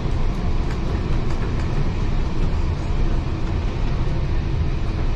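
Heritage railway carriage running along the track: a steady low rumble of wheels on rail, with occasional faint clicks.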